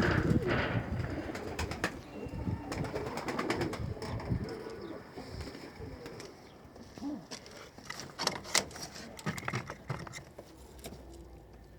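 Domestic pigeons cooing, louder in the first few seconds and fading later, with scattered sharp clicks among them.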